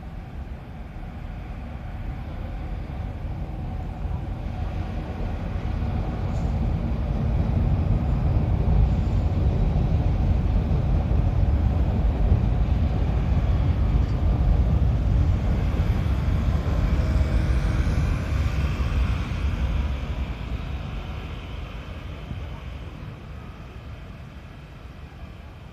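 Sotetsu Line train going by: a low rumble that builds over several seconds, is loudest in the middle with a falling whine, then fades away.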